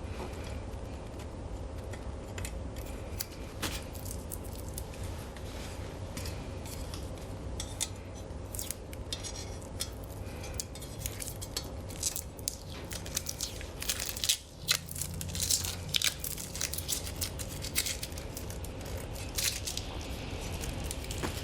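Protective plastic film being peeled off a stainless-steel fire pit stove: irregular crackling and tearing, with light metallic clinks as the parts are handled. It grows denser and louder in the second half, over a steady low hum.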